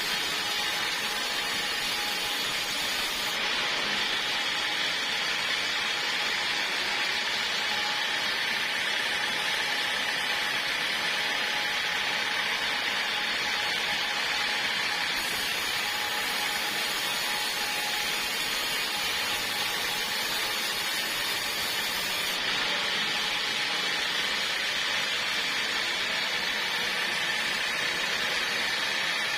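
Portable sawmill running steadily, a continuous mechanical noise with a faint steady whine.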